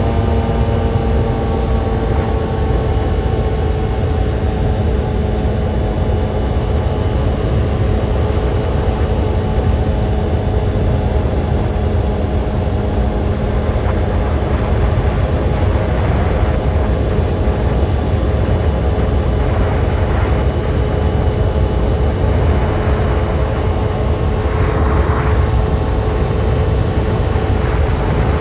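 Kawasaki sport motorcycle engine running at a steady speed on the move, its note holding nearly level and easing slightly lower over the first half, over a strong constant low rumble.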